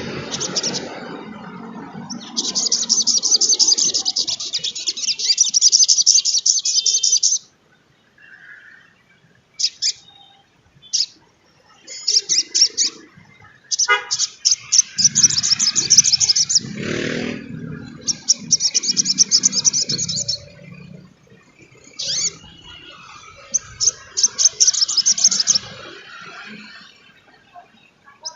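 Sogon trotol bird singing fast, high, chattering trills in bursts: a long run of about five seconds near the start, then a string of shorter bursts with gaps between them.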